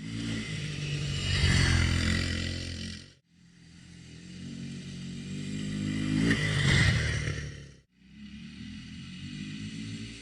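Honda 300EX quad's single-cylinder four-stroke engine running and revving, heard in three short cuts that each end abruptly. Twice it builds up in pitch and loudness and falls away, then it runs steadier and quieter near the end.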